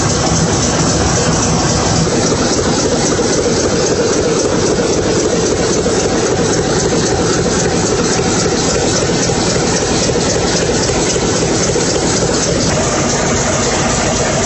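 Large old engine running steadily with a fast, even firing beat.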